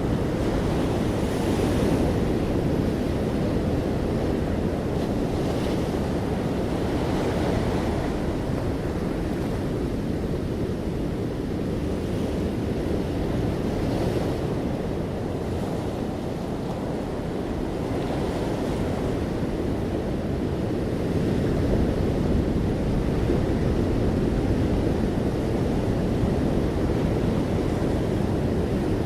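Ocean waves breaking gently on the shore in a continuous low surf wash, with swells of brighter hiss as waves come in, a few seconds apart.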